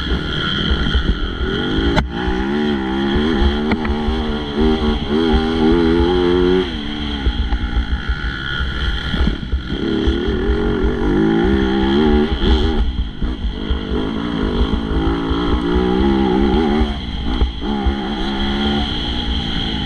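Motocross bike engine revving hard and easing off again and again as the throttle is opened and shut, with brief drops in engine speed about halfway through.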